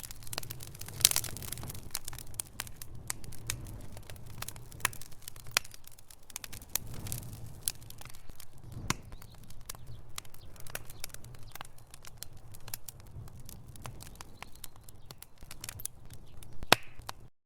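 Log fire burning in a fireplace: dense, irregular crackling and popping of burning wood over a low steady rumble of the flames, with a few sharper pops. The sound cuts out briefly at the very end.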